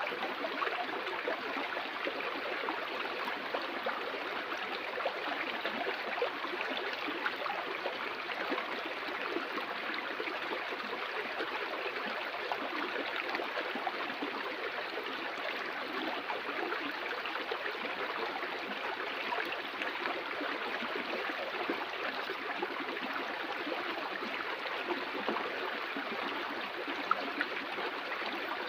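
Flowing stream water, a steady rushing with small gurgles and splashes.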